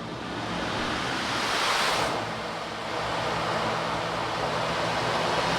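Ocean drum played by tilting it so the beads inside roll across the drumhead, making a surf-like rush. The rush swells and ebbs once, then builds again and holds.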